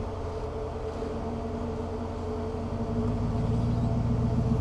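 Jeep Wrangler LJ engine running low and steady while crawling over rock, growing a little louder about three seconds in as light throttle is given to climb a ledge.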